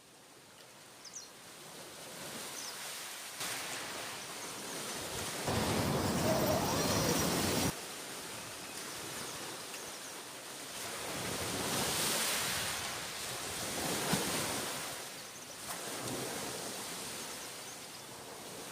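Ocean surf and gusting wind on the shore: a rushing noise that swells and fades several times. The loudest stretch lasts a few seconds in the first half and starts and stops abruptly.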